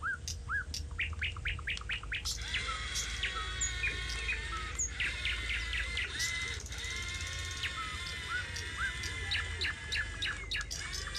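Several birds chirping and calling over one another in quick short notes, some rising and some falling, over a steady low hum.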